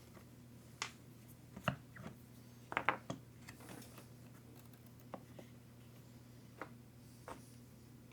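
Scattered light clicks and taps of small parts and tools being handled while working on an RC truck, with a quick cluster about three seconds in, over a steady low hum.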